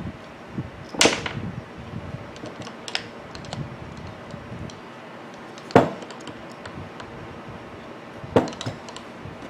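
Hand work on the gear head of an angle grinder: a few sharp clicks and knocks of metal parts and tools, the loudest about six seconds in, with faint ticks between.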